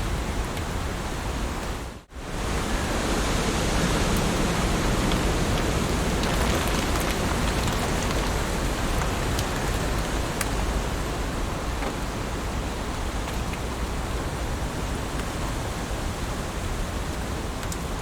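Heavy rain falling steadily, a dense even hiss with scattered drop ticks. It cuts out for a moment about two seconds in, then comes back.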